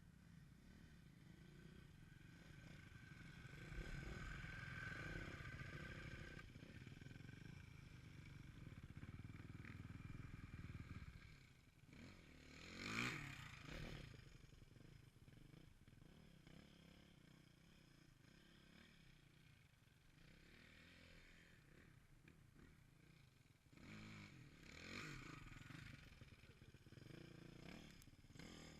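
Faint dirt-bike engines running on a motocross track. One bike passes closer about halfway through, with its pitch sweeping, which is the loudest moment; a second, smaller swell comes near the end.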